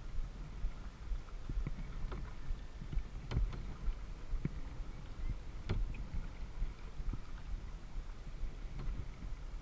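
Kayak paddling on a lake: water sloshing and splashing around the hull over a steady low rumble, with scattered sharp knocks, the two loudest a little over two seconds apart.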